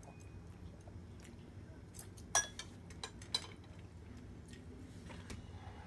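Eating utensils clinking against plates and bowls during a meal: scattered light clicks, the sharpest about two and a half seconds in and another about a second later.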